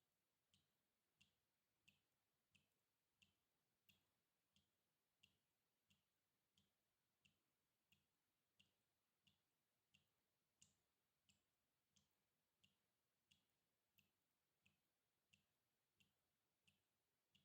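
Water dripping, single drops falling in a steady even rhythm of about three every two seconds, each a short sharp drip, very faint.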